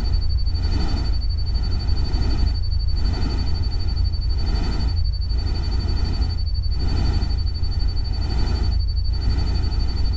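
Electronically generated nature-ambience noise: a steady hiss with a heavy deep rumble, swelling and dipping about every second or so, with a constant thin high tone running through it.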